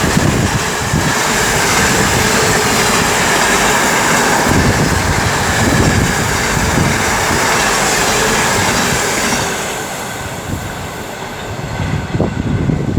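Intermodal freight train hauled by a DRS Class 66 diesel passing through the station at speed: a loud, steady rush and rattle of wagon wheels on the rails, which dies away about ten seconds in as the last wagons go by.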